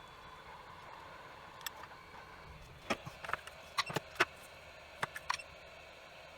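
A run of small, sharp clicks and taps, about eight of them, irregularly spaced, over a faint steady hiss: small hand tools being handled while removing components from a circuit board.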